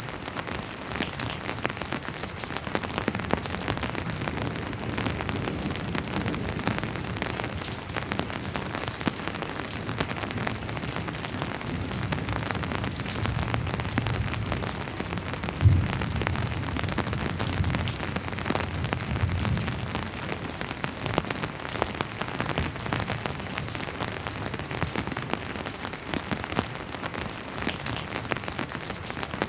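Steady rain falling, a constant hiss with many close drops ticking on a surface. About halfway through, a low rumble of distant thunder swells for several seconds, with one brief louder thud in the middle of it.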